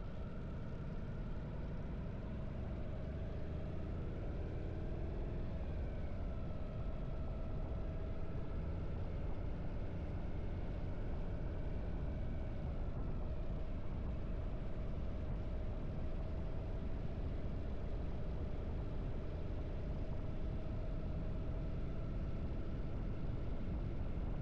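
Harley-Davidson V-twin motorcycle engine running steadily while riding along the road, with a strong low rumble. Its pitch shifts slightly a few seconds in, then holds steady.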